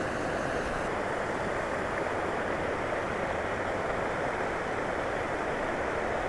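Steady rush of flowing creek water, an even hiss without breaks.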